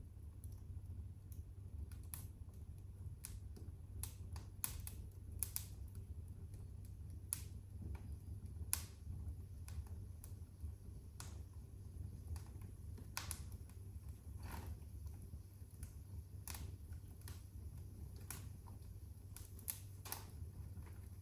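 Wood fire crackling in a fireplace: irregular sharp pops and snaps, a few each second, over a low steady rumble.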